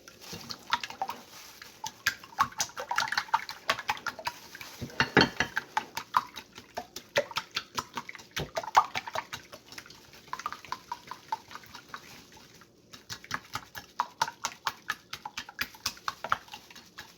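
A utensil beating eggs and oil together in a bowl, with rapid repeated clicking and knocking against the bowl's side and a brief pause about three quarters of the way through.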